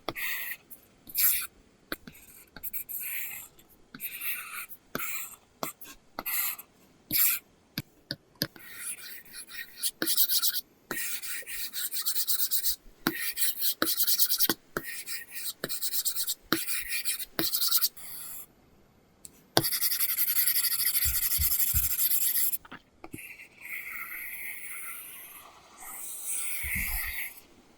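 Apple Pencil tip scratching across a paper-texture screen film on an iPad while drawing. Short separate strokes come first, then longer continuous hatching strokes, with a few soft low knocks near the end.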